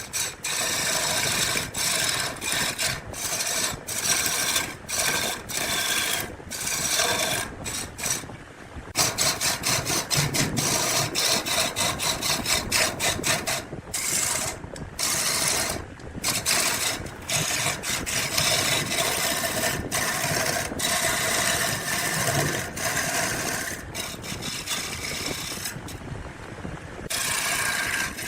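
A tool working wood, with a scraping, rasping noise that stops and starts again abruptly many times.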